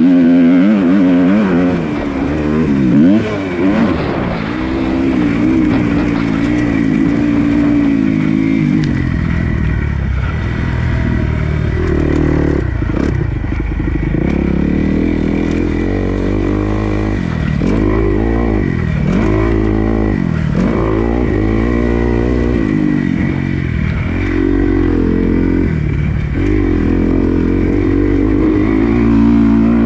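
Dirt bike engine being ridden hard, its pitch climbing and dropping again and again as the throttle is opened and closed.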